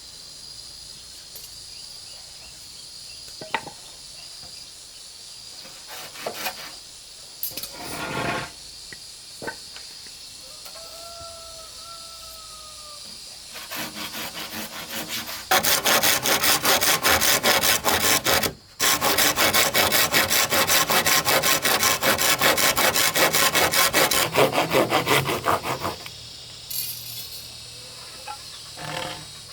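A hand saw cutting through bamboo in fast, even strokes for about ten seconds in the second half, with one brief pause. Before it, insects drone steadily and a rooster crows once.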